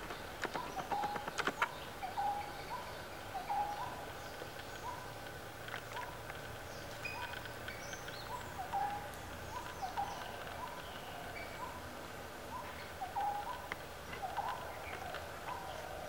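Birds calling: one short, hooked note repeated over and over, a little faster than once a second, with scattered higher chirps over it. A few sharp clicks come in the first two seconds.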